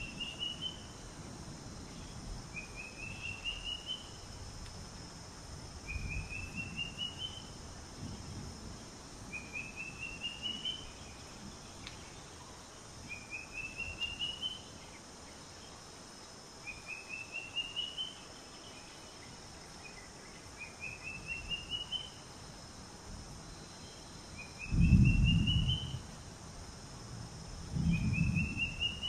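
A bird repeats a short phrase of quick notes rising in pitch, about every three and a half seconds, over a steady high insect drone. Near the end come two deep rumbles about a second long, the loudest sounds.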